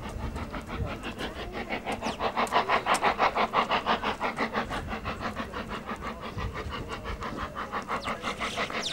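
Steam locomotive of the Brienz Rothorn rack railway chuffing in a fast, even rhythm of about six exhaust beats a second, loudest a few seconds in.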